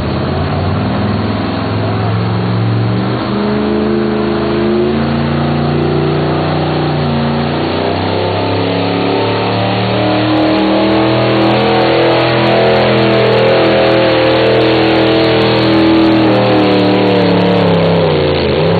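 Ford pulling truck's engine at full throttle under heavy load, dragging a pulling sled. The revs step up and down over and over, then fall away near the end as the pull finishes.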